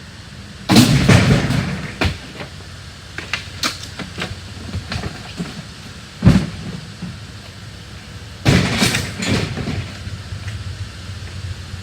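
Junk and debris being thrown and dropped into a truck: a run of loud crashes and bangs with smaller knocks and clattering between them, the biggest crashes about a second in and again near the end, with a sharp single bang in the middle.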